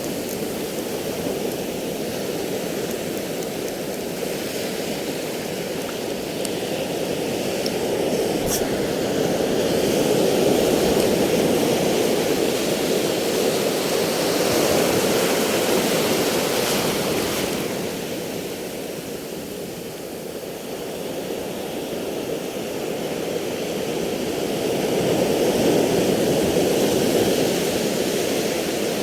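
Sea surf washing in, a steady rushing that swells and eases every several seconds.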